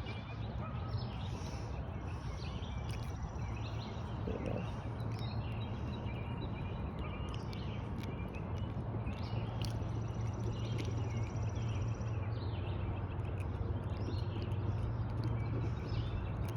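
Outdoor ambience: birds chirping on and off over a steady low rumble, with a high insect buzz for a couple of seconds in the middle.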